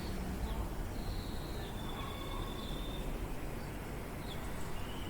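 Birds singing: thin, drawn-out whistled notes, several in turn, over a steady low background rumble.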